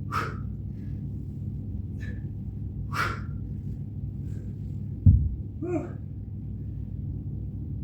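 A man breathing out hard in short forceful bursts while exerting himself in a workout, with a heavy low thud about five seconds in and a brief grunt just after, over a steady low rumble.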